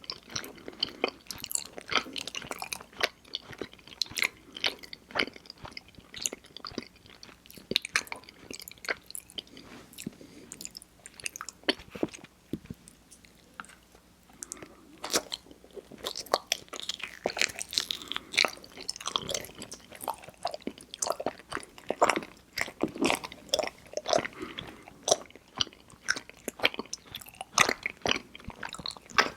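Close-miked mouth sounds of someone biting and chewing mochi ice cream: irregular wet, sticky smacks and clicks, quieter for a few seconds near the middle.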